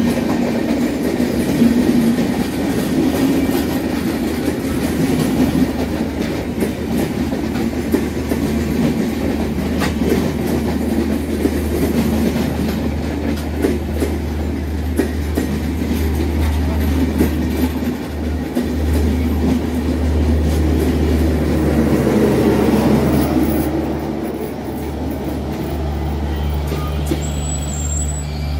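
Broad-gauge LHB passenger coaches of a train slowing for a station, rolling past close by. The wheels click over rail joints above a steady low rumble and hum. The sound drops a little after about 24 seconds as the last coaches go by.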